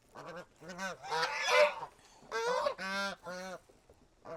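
Domestic geese honking: a run of about six or seven short honks, the loudest and harshest a little over a second in.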